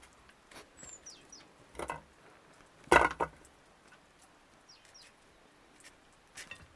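Scattered light knocks and clicks, with one louder knock about three seconds in followed by a smaller one, and a few faint high chirps that fall in pitch.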